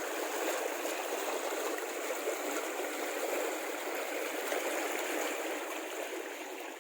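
Water rushing steadily, a continuous wash of noise that fades in and out.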